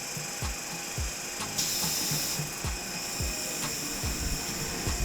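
Old electric streetcar (the Santa Teresa tram) running: a rhythmic mechanical clicking and knocking about twice a second over a steady high hiss, which swells briefly about two seconds in.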